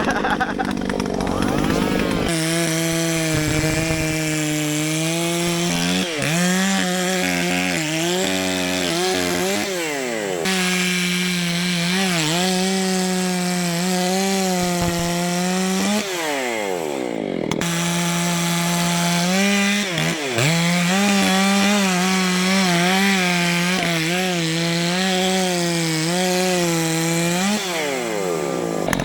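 Gasoline chainsaw cutting through a large tree trunk at high revs. Its engine note falls and climbs back several times as the throttle is eased off and opened again.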